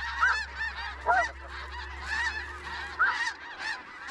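A flock of snow geese calling, with many short, high, overlapping honks.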